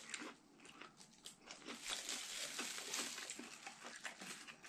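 Faint close-up chewing of crispy battered fried food: a run of small irregular crunches and wet mouth clicks, thickening after about a second and a half.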